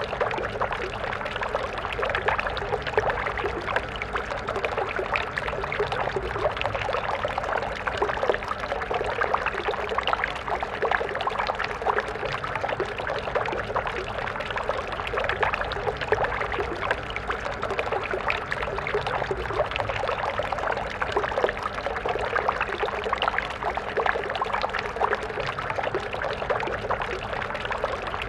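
Water stream flowing steadily, a continuous rush of water full of small splashes and trickles.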